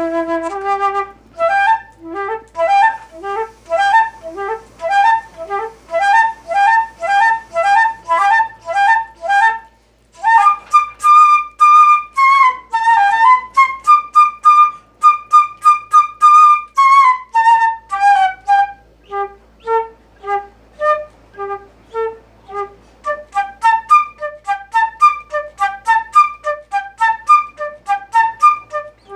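Solo flute playing an improvised melody: fast repeated and leaping notes, a long held high note that dips and rises again partway through, then quick runs of notes.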